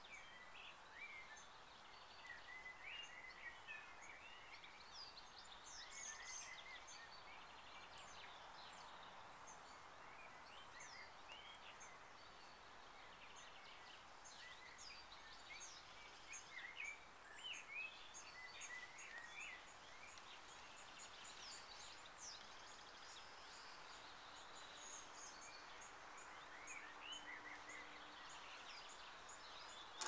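Small birds chirping and singing faintly and on and off over a quiet outdoor background hiss.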